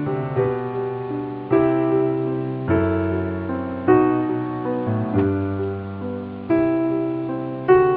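Background music: slow electric-piano chords, a new chord struck about every second and a bit and left to fade.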